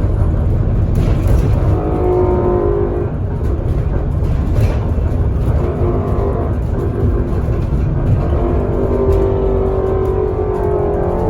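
Bus engine and road rumble heard from inside the passenger cabin, with the engine note rising as the bus accelerates, once a couple of seconds in and again over the last few seconds. A few brief rattles come through the cabin.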